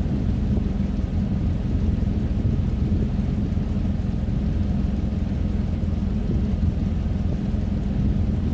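A vehicle's engine running steadily, a low rumble that holds an even pace without revving.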